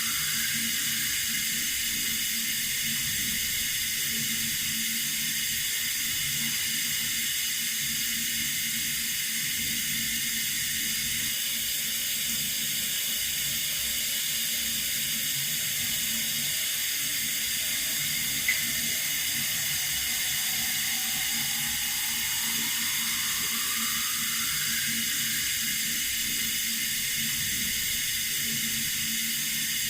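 Water running steadily from a tap, an even hiss, with a single brief click about two-thirds of the way through.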